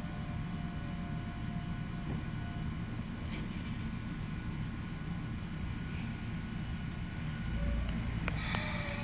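Ohmi Railway local electric train running, heard from inside the carriage: a steady low rumble with a faint motor whine, a low thud near the end followed by a few sharp clicks.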